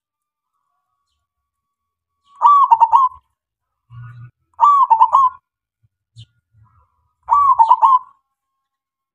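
Male zebra dove (perkutut) singing its cooing song: three short phrases of rapid, trilling coos, each under a second long, about two and a half seconds apart.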